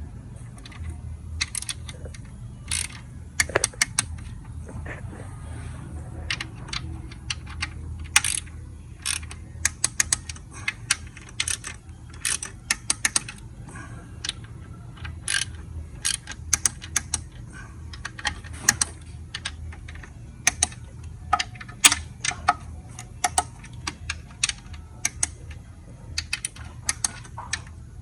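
Hand tools working on the engine: sharp, irregular metallic clicks and clinks, some in quick runs like a ratchet wrench, over a steady low hum.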